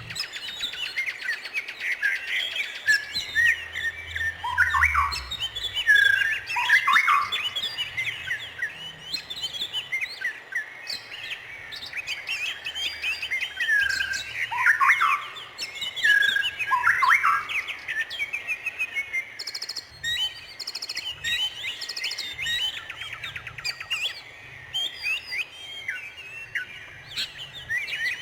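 Songbirds chirping and singing without pause: quick chirps and trills, with repeated notes that sweep downward in pitch.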